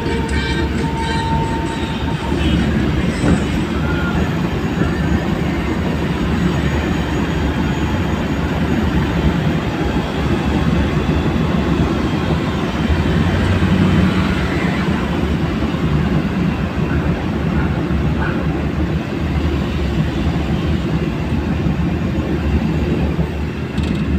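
Steady rumbling road noise of a moving vehicle, dense and low, with no distinct events.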